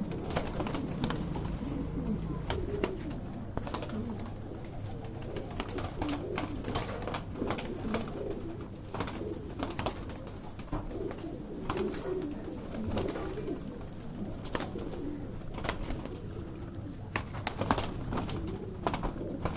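Pigeons cooing in low, scattered murmurs, with frequent short sharp clicks over them.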